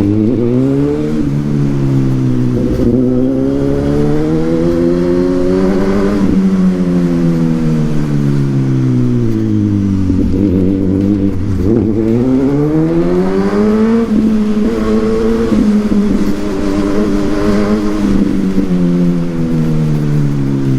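Suzuki GSX-S1000 inline-four running through a Yoshimura aftermarket exhaust while riding. The engine note climbs for about six seconds, drops sharply and falls away, then builds again and holds high before easing off near the end.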